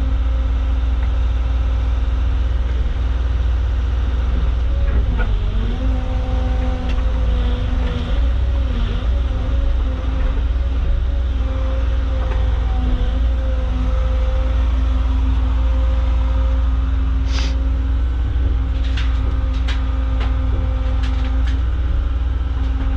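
Caterpillar mini excavator's diesel engine running steadily, heard from the operator's seat, with a droning tone that wavers in pitch as the machine works. A few sharp knocks sound in the last few seconds.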